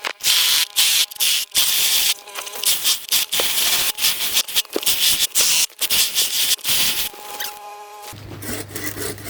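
Leaf blower running in short on-off blasts, a rushing of air with a whining motor tone, blowing debris off a shelter roof. Shortly before the end it gives way to a different, steadier sound with a low hum.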